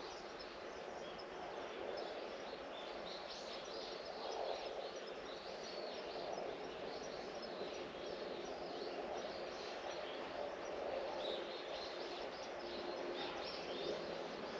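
Many small birds chirping, short calls overlapping one another throughout, over a steady background noise.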